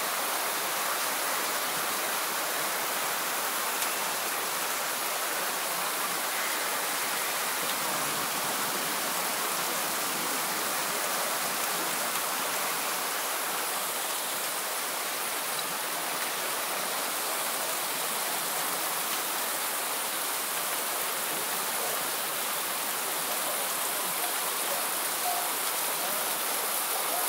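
Rain pouring down steadily, an even, unbroken hiss.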